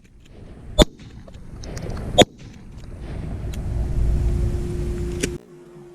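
Two shotgun shots about a second and a half apart, then a low rumble that builds for a couple of seconds and cuts off suddenly.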